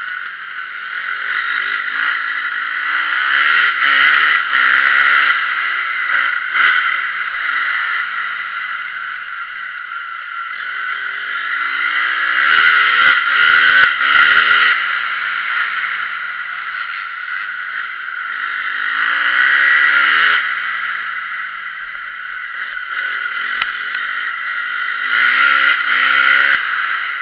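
Motocross bike engines revving up and down as riders go round the track, the sound swelling loudest about four, thirteen, twenty and twenty-six seconds in.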